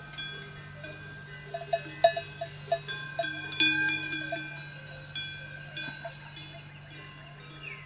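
Metal bells clanking irregularly, each strike ringing on.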